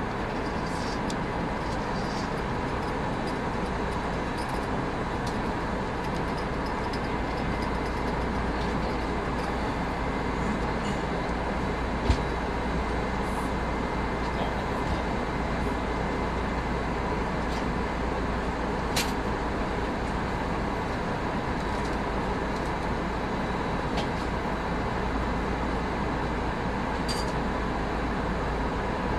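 Steady cabin noise of an Airbus A319 in flight, heard from a front-row seat: constant engine and airflow roar with a faint steady whine over it. A few small clicks or knocks break it, the loudest about twelve seconds in.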